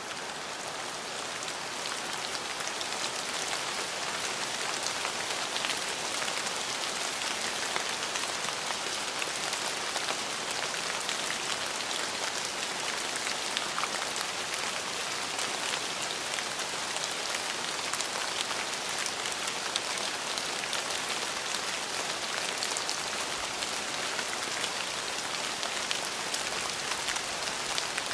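Steady rain falling on a surface, a dense even hiss with single drop hits scattered through it, swelling up over the first few seconds and then holding level.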